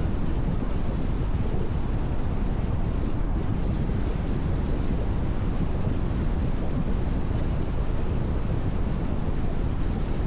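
Car cruising at steady expressway speed on a wet road in the rain: an even, unbroken rumble of tyre and road noise, heaviest in the low end.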